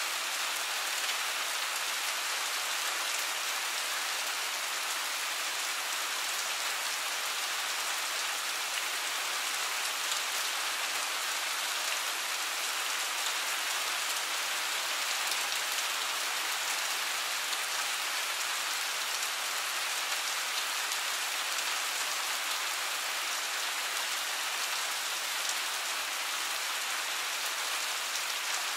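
Steady rain falling, an even hiss of many drops with no thunder and no change in strength.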